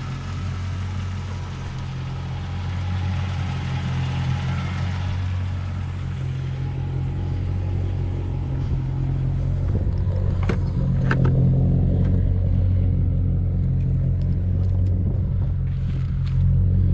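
The 5.7 L Hemi V8 of a 2005 Chrysler 300C idles warm through a straight-pipe exhaust with no middle muffler and resonated tips, giving a steady, deep, even idle. A few short clicks come in about ten seconds in.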